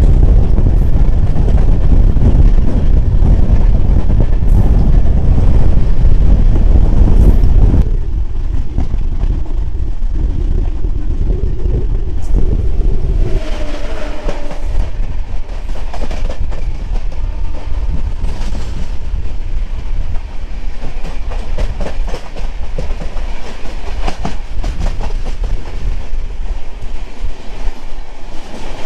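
Moving express passenger train heard from aboard: steady low rumble of the coach running over the rails, with repeated wheel clicks. The rumble drops noticeably about eight seconds in.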